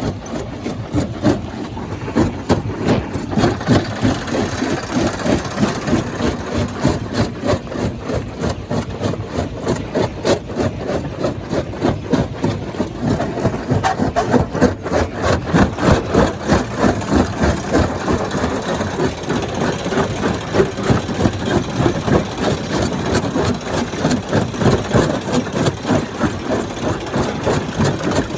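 Stone crusher plant running: heavy machinery with a steady engine drone and a rapid, even pulsing of several beats a second.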